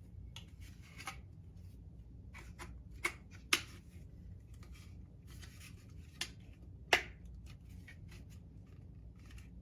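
Plastic parts of a pet water fountain being handled and fitted together: light rubbing with scattered sharp clicks, the loudest about three and a half and seven seconds in.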